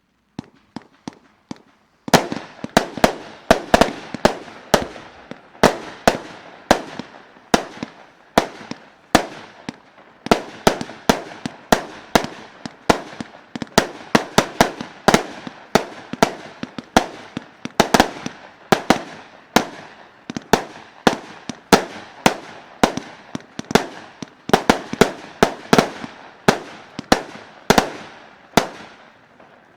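A Weco consumer firework battery (cake) firing after its fuse is lit. Faint crackling gives way, about two seconds in, to a fast, uneven run of sharp bangs, several a second, that keeps going throughout.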